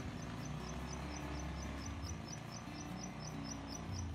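A small bird calling in a rapid, even series of short high chirps, about four a second, over low sustained tones in the background.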